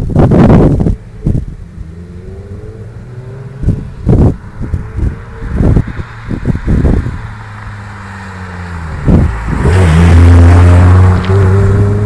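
Renault Clio RS 200's four-cylinder engine through a Friedrich catback exhaust with the front silencer removed, its note rising as it accelerates, loudest from about ten seconds in. Several loud thumps come in between.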